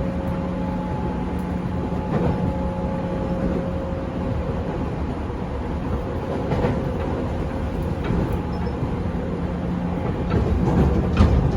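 Running sound heard inside a JR 205 series 500 electric multiple unit's motor car (MoHa 205-512) moving along the line. Wheels rumble on the rail with a few knocks from rail joints, under a steady motor hum.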